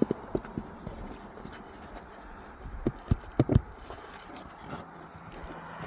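Dull knocks and some scraping as a wind-damaged roof shingle is tugged and pried up from the roof: a few knocks right at the start, then a tighter cluster about three seconds in. A low steady hum begins near the end.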